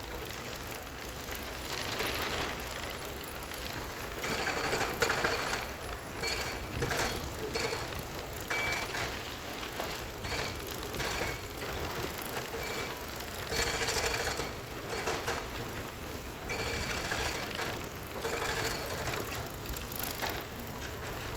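Heavy earthmoving machinery working, with repeated brief metallic squeaks and a rattling, grinding clatter that rises and falls in surges.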